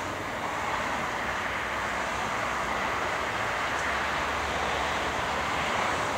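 Jet airliner engines heard from nearby, a steady rushing noise that grows a little louder about a second in.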